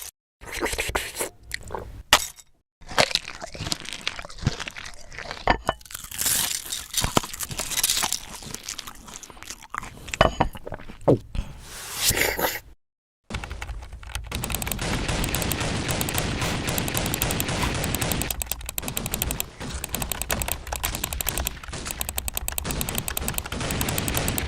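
Cooking sound effects: a run of cracks and crunches broken by short silent gaps, then from about halfway in a dense, steady rapid crackle.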